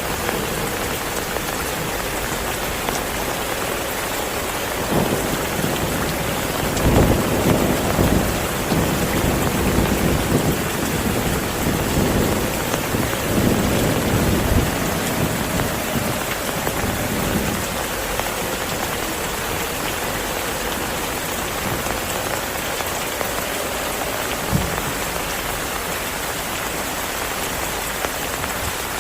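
Steady heavy rain, with a long rolling rumble of thunder starting about five seconds in and dying away over some twelve seconds, and a single short low thump of thunder near the end.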